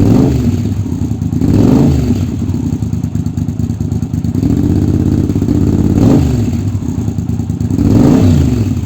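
Yamaha TRX850's parallel-twin engine through an aftermarket Delkevic exhaust, revved from idle in several quick throttle blips, with one longer held rev in the middle.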